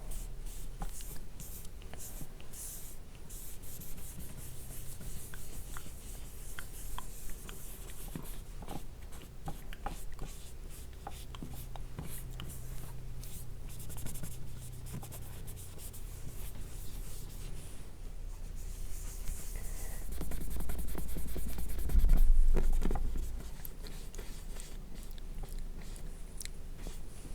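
Close-miked hands rubbing oil cleanser over a mannequin's face, a continuous scratchy rubbing with many fine crackles. About twenty seconds in, a louder low rumbling bump lasts a couple of seconds.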